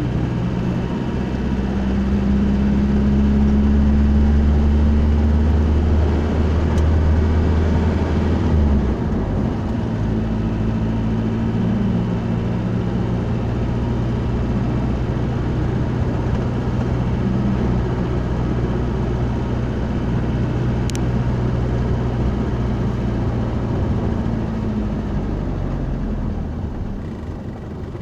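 A road vehicle's engine and road noise as it drives, a steady low hum that is stronger for the first several seconds and eases off about nine seconds in.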